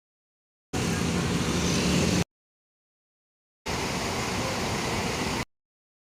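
Two short spliced clips of road-vehicle noise, a steady engine with a low hum, each starting and cutting off abruptly, with dead silence between them.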